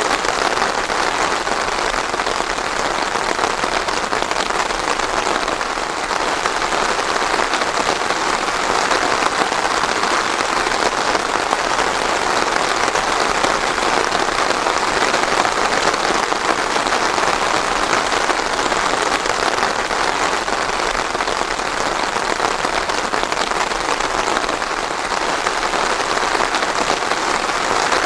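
Steady rain falling on a surface, an even dense hiss of many drops without thunder.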